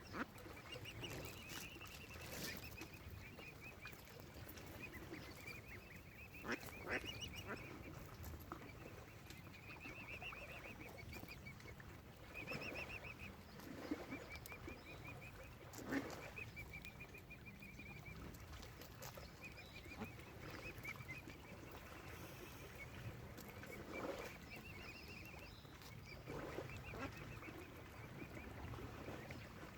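Waterfowl calling: short, high-pitched, rapidly pulsed calls of about a second each, repeated many times over a low rumble, with a few sharp knocks.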